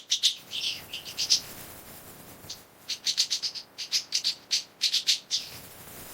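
Canaries chirping: short, high chirps, a few in the first second and then a quick run of them from about two and a half to five and a half seconds, fading to faint hiss near the end.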